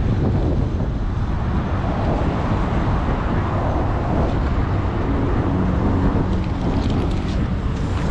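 Strong wind buffeting the microphone: a steady low rumble, with a faint hum that comes and goes in the second half.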